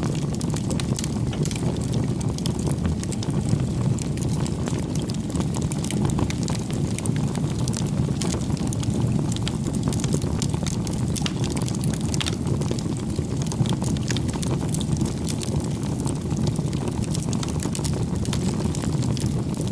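Wood fire burning: a steady low rumble with frequent irregular crackles and pops.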